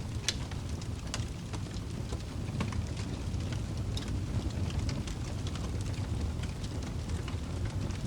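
Crackling fireplace: irregular sharp pops and snaps of burning wood over a steady low rumble.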